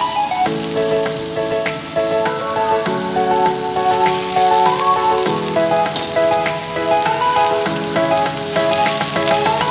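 Vegetables and fried tofu sizzling in a steel wok as they are stirred, with a few light clicks. Background music, a slow melody of held notes that change about every second, plays throughout.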